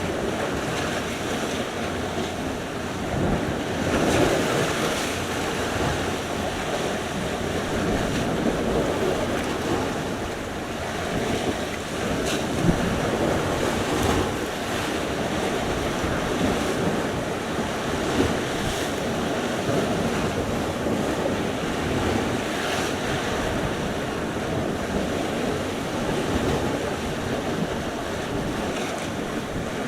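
Sea surf: waves breaking and washing on the shore in a continuous rush, swelling now and then, with wind buffeting the microphone.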